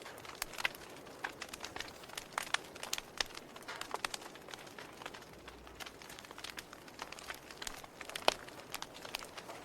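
Wood campfire crackling: irregular sharp snaps and pops over a soft hiss, with one louder snap near the end.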